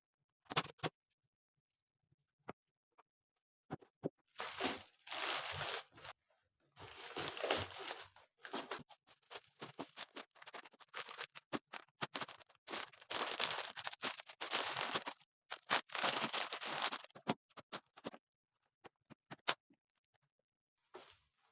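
Scratchy, rustling noise in five bursts of one to three seconds each, with scattered clicks and taps before and after.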